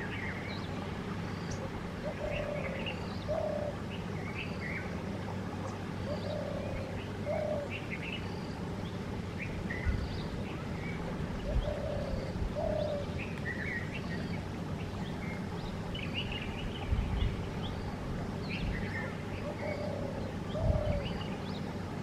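Wild birds calling: a short, low call repeated every second or two, with scattered higher chirps over it. A few low thumps stand out over the calls.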